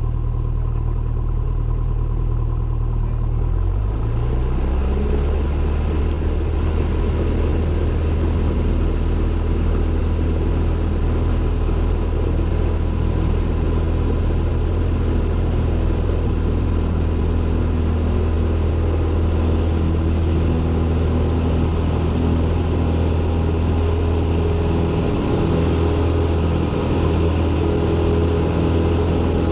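Cessna 172N's four-cylinder Lycoming engine and propeller droning steadily in flight; the engine note rises a little about four seconds in as power is changed, then holds.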